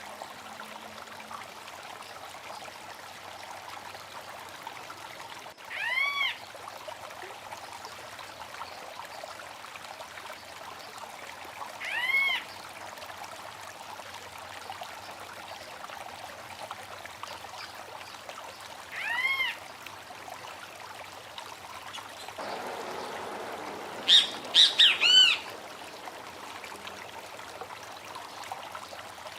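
Stream water running steadily, with a bird repeating a single short arched whistle, rising then falling, about every six seconds. Near the end the water swells and a bird gives a quick burst of four louder notes.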